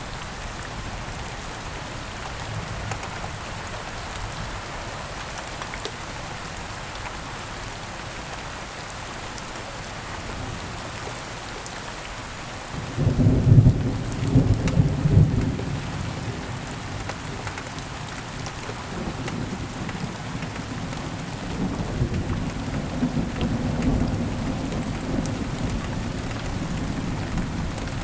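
Steady rain falling, with a loud clap of thunder about halfway through that rumbles for a few seconds and then rolls on more quietly to the end.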